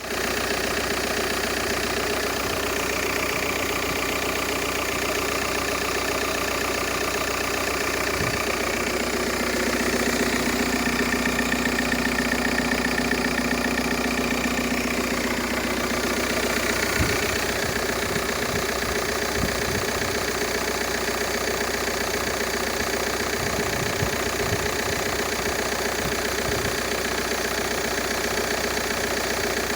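Volkswagen Golf IV's 1.9 TDI AXR four-cylinder pumpe-düse turbodiesel idling steadily, running a little louder for several seconds in the middle.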